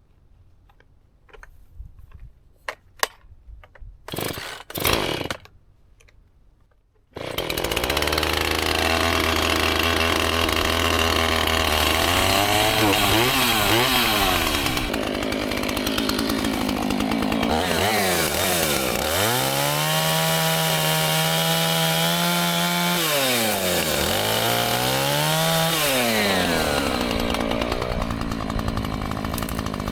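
A few small clicks and two short loud rasps, then a chainsaw starts about seven seconds in and runs loudly. Its engine pitch drops and climbs back up several times as it is revved.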